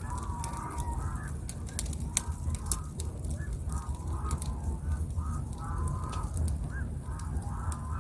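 Wood fire crackling with scattered sharp snaps, while birds give short calls over and over, every half second or so, above a steady low rumble.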